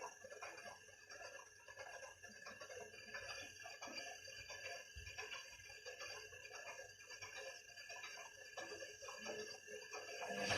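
Zanussi FL904NN front-loading washing machine between phases of a rinse: faint, irregular clicking and ticking over a faint steady whine, then the drum motor starts up loudly right at the end.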